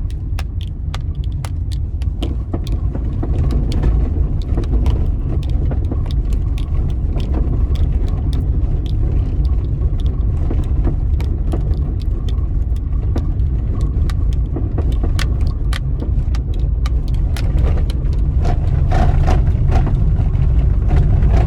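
Cabin noise of a Hyundai HB20 driven over cobblestones: a heavy, continuous low road rumble with many sharp knocks and clicks. These are interior plastic rattling plus a strong knock from under the front suspension, which was traced to a loose subframe bolt.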